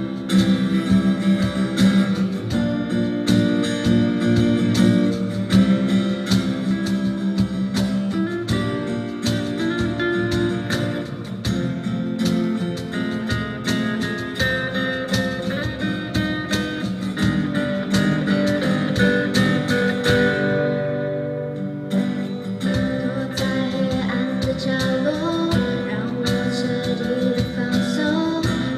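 Live band music: guitars playing over a steady drum beat, with a brief drop in the fuller sound about two-thirds of the way through.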